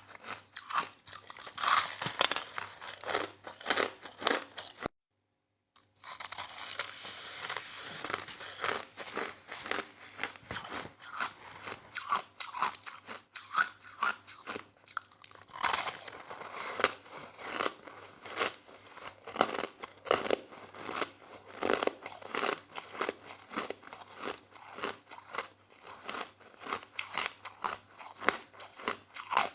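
Crushed soft ice being chewed close to the microphone: a dense, irregular run of crunches, with a sudden second of silence about five seconds in.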